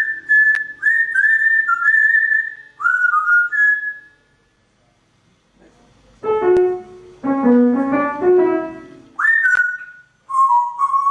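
Short whistled notes, mostly quick upward slurs held at one high pitch, in a run of about eight. After a pause comes a brief piano-like melody with several notes sounding together, then the whistling starts again near the end.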